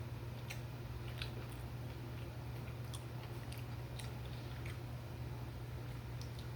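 A person chewing and biting food close to the microphone, with scattered short mouth clicks and crackles, over a steady low hum.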